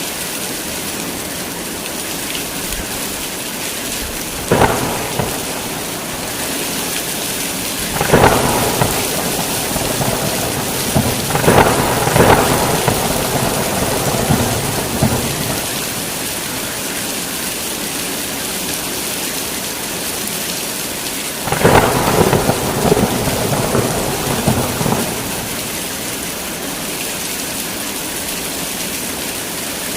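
Heavy rain falling steadily, with thunder rumbling in over it several times: a short crack about four seconds in, longer rolling peals around eight and twelve seconds, and a long roll a little over twenty seconds in.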